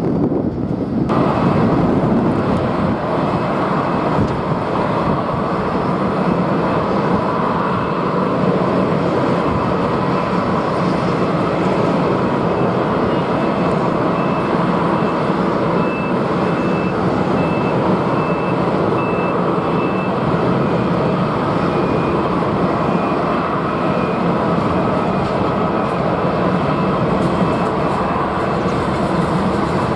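Jet airliner engines running: a steady, loud noise with a thin high whine over it. The sound fills out about a second in.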